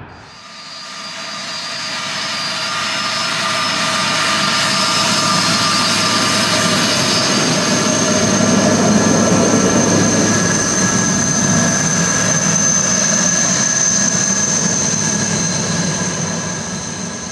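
Jet airliner's engines passing by: a rumble with a high steady whine above it swells to a peak about halfway through, then fades away.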